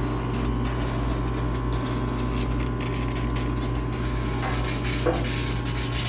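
High-pressure steam cleaner running with a steady low hum, steam hissing from the nozzle while a washing machine is sterilized. There is a small knock about five seconds in.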